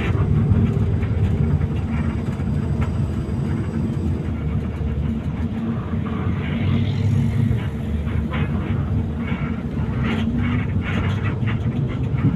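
Coach bus under way: a steady low rumble of engine and road noise, with scattered light rattles and clicks that grow busier in the second half.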